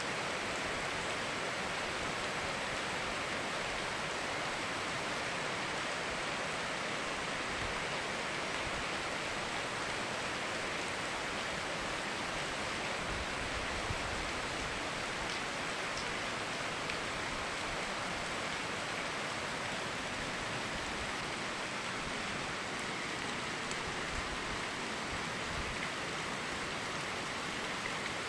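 Steady rain falling together with a flowing river or stream, an even, unbroken hiss of running water.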